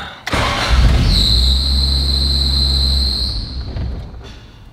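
Toyota AE86's four-cylinder engine starting up with a high-pitched whine over it, running for a few seconds and then fading out as it stalls. The car starts for a few seconds and then dies, which the owners put down to the ignition timing being off after the distributor was removed.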